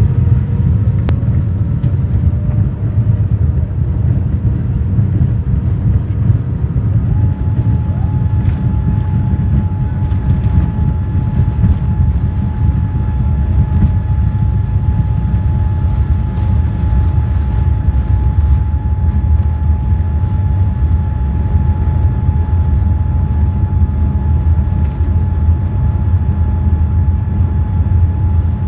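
Passenger jet's engines heard from inside the cabin during takeoff: a steady, loud low rumble with a thin whine that steps up in pitch about seven seconds in and then holds.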